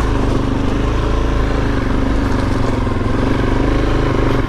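Suzuki DRZ400S's single-cylinder four-stroke engine pulling steadily along a dirt trail, its pitch wavering slightly with the throttle. Right at the end the note drops to a lower, pulsing beat as the throttle comes off.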